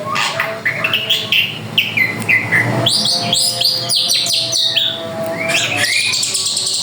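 A drongo (srigunting) singing a fast, varied song of quick downward-sweeping whistles and chatter with hardly a pause, busiest from about halfway in. A steady low tone runs under part of it.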